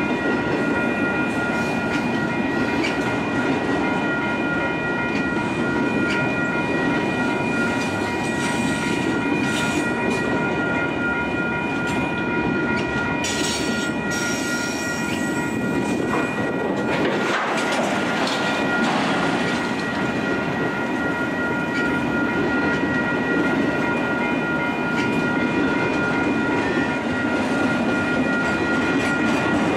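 Freight train of autorack cars rolling past, its wheels clattering over the rail joints in a steady rumble. A level-crossing warning bell rings steadily over it.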